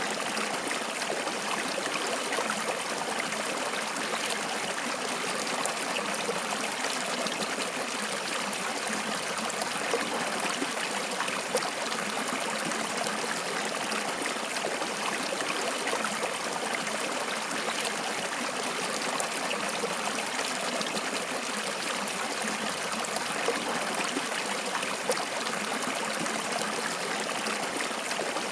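Flowing water running steadily, a continuous rushing trickle like a small stream, with a few brief louder splashes.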